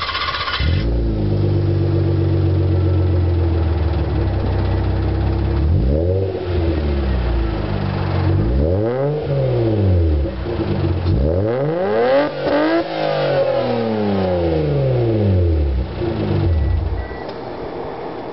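Mazda MX-3's 1.8-litre K8 V6 running through an aftermarket Reactive muffler: just started and at a fast idle, then blipped about five times, revs rising and falling, before dropping away near the end. The valve lifters are noisy, which the owner takes as a sign the engine is nearly due for replacement.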